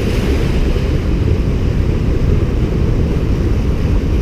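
Strong wind buffeting the microphone over ocean surf: a loud, steady rumble.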